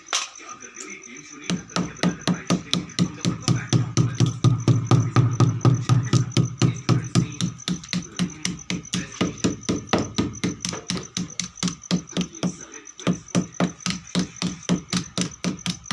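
Fast, regular knocking, about five strokes a second, over a low hum that drops out briefly near the end.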